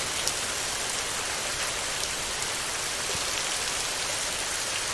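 Heavy rain falling steadily on a metal roof: a dense, even hiss with scattered drop taps.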